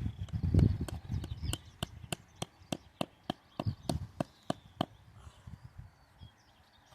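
Tent peg being knocked into the ground with steady sharp strikes, about three a second, stopping about five seconds in, with wind rumbling on the microphone.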